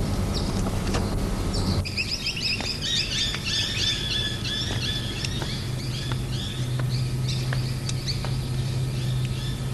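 Small birds chirping and twittering, many short rising and falling calls close together, starting about two seconds in just as a low rumble cuts off. A faint steady hum lies under them.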